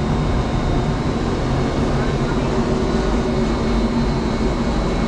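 Steady mechanical drone of running machinery: an even noise with a low hum and a faint high whine, unchanging throughout.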